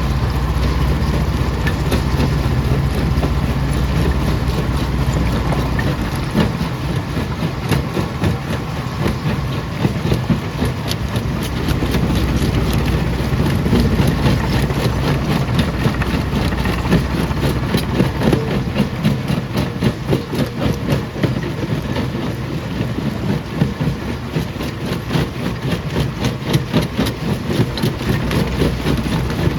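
Jaw crusher machinery running with a steady low drone, overlaid by a rapid, irregular clatter of knocks from rock being broken. The deepest part of the drone drops away about six seconds in as the clatter thickens.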